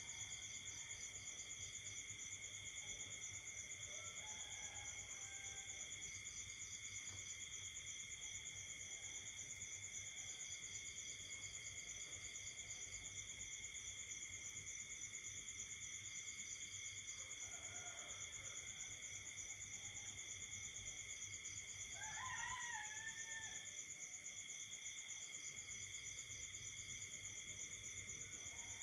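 Night chorus of insects and frogs: steady high trilling at several pitches, with a pulsed chirping that repeats about every two seconds. About 22 seconds in, a louder short call rises and falls over the chorus.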